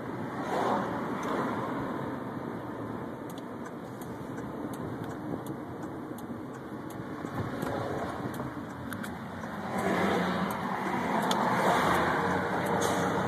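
Car driving slowly, steady road and engine noise from inside the cabin, with small light rattles and clicks; the noise swells about ten seconds in.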